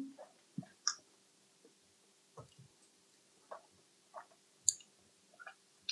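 Close-miked mukbang eating sounds: short, wet chewing smacks and mouth clicks, about eight of them spread irregularly, over a faint steady hum.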